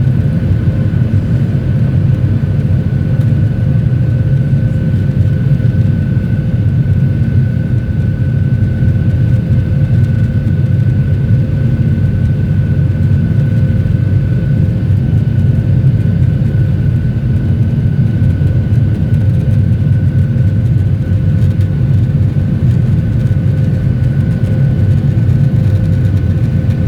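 Steady drone inside the cabin of a Boeing 737-800 in flight, from its CFM56 turbofan engines and the airflow, with two faint steady tones above the low roar.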